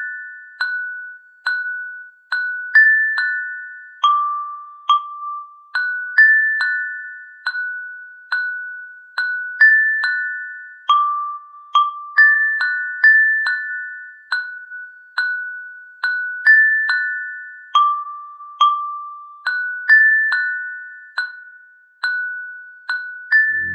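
Glockenspiel-like melody: single bell-like struck notes, each ringing out and fading, cycling slowly over three or four high pitches at about two notes a second. No rain is heard.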